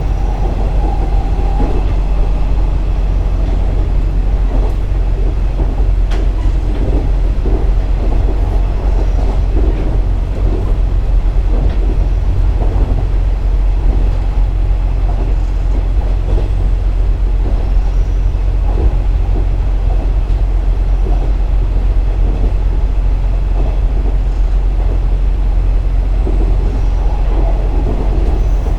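KiHa 47 diesel railcar under way: a steady low diesel engine drone with irregular wheel-on-rail clatter and rattle, unchanged throughout.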